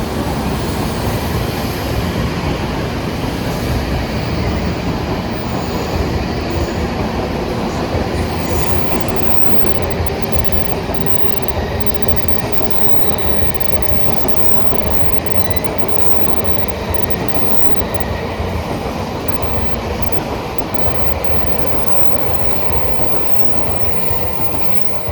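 Shinkansen train moving along the platform: a loud, steady rumble of wheels and running gear that eases off near the end.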